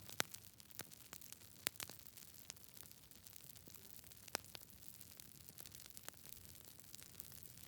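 Wood fire burning in a fireplace: a soft steady hiss with irregular sharp crackles and pops, a few louder snaps standing out.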